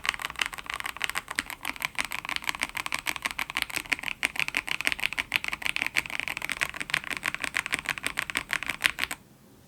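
Fast, steady typing on a mechanical keyboard fitted with lubed and filmed Gateron X linear switches: a dense patter of key strokes that stops suddenly near the end.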